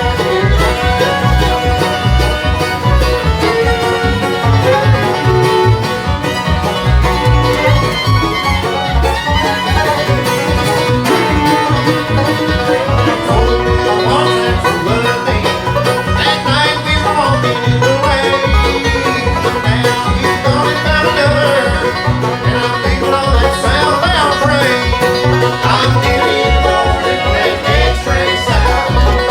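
A bluegrass band playing an instrumental stretch without singing: banjo to the fore, with fiddle and guitar over a steady low beat.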